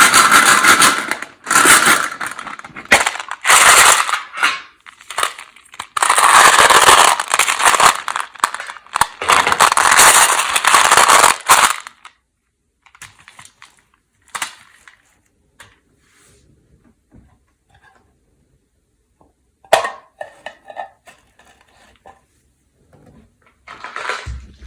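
Peanut M&M's candy packet being handled: loud crinkling and rattling in bursts for about twelve seconds, then quieter scattered clicks and taps of candies, with one sharp click near the end.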